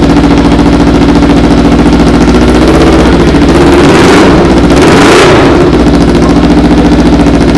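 Kawasaki Ninja 300's parallel-twin engine running loud through an aftermarket stainless-steel full-system exhaust. It idles steadily, with two short throttle blips about four and five seconds in.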